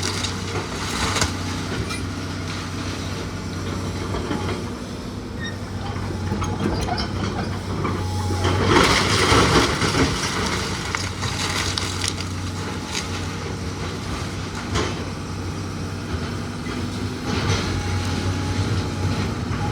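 Heavy machine's engine running steadily, with crunching and knocking of wood being broken apart, loudest about halfway through.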